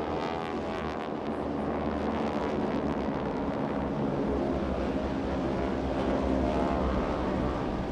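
A massed formation of North American Harvard / T-6 Texan / SNJ trainers flying past, their nine-cylinder radial engines and propellers blending into one steady, dense drone that swells a little near the end.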